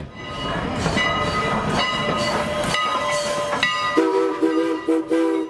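Passing steam-hauled excursion train rolling and clattering, with high ringing tones that come and go. About four seconds in, a steam locomotive's chime whistle sounds a three-note chord in short broken blasts.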